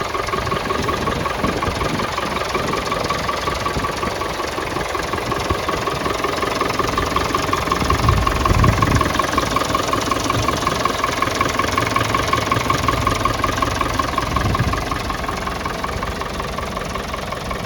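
Ferguson 35 tractor engine idling steadily with an even beat, briefly a little louder about eight seconds in.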